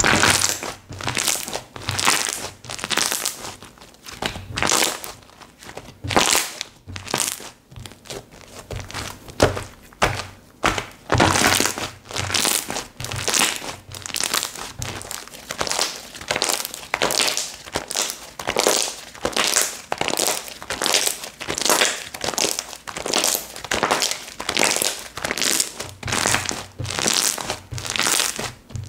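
Slime being squished and pressed by hand, giving repeated crackly, squelching pops about one to two times a second.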